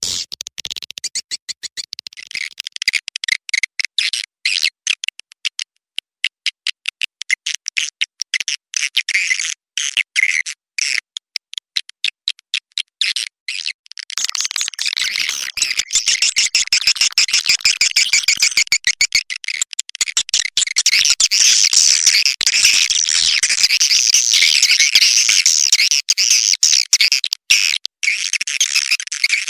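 Recorded swiftlet calls: a dense, rapid, stuttering twitter of high chirps. It is a lure call of the kind played to draw swiftlets into a nesting house. About halfway through the chatter becomes fuller and more continuous.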